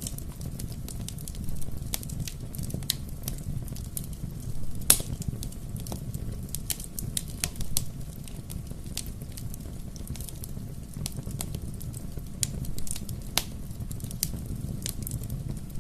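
Wood bonfire crackling: irregular sharp pops and snaps over a low, steady rumble of flame. One loud pop comes about five seconds in.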